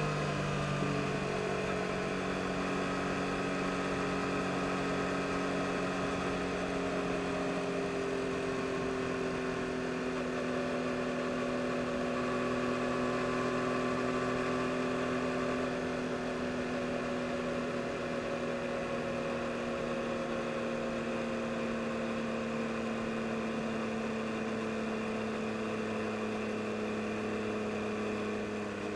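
2022 Yamaha MT-09 SP's three-cylinder engine pulling steadily at part throttle while riding, its revs sinking slowly and evenly, with air rushing past.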